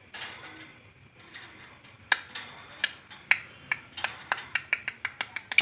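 Lovebird making a run of short, sharp clicking chirps that start about two seconds in and come faster and faster toward the end: a young bird practising its ngekek trill.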